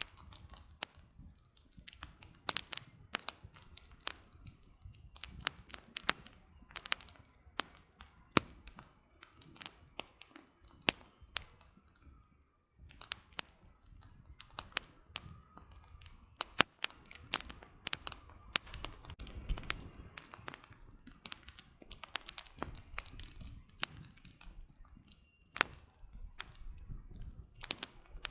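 Campfire of burning firewood crackling, with irregular sharp pops and snaps over a faint low rumble of flame.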